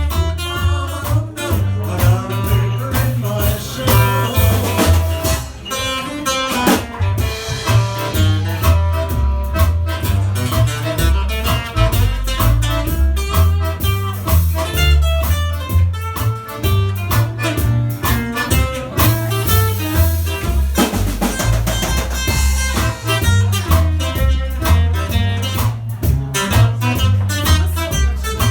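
Live band playing an instrumental stretch of a Cajun-style song, with guitar and drums over a steady, prominent bass line.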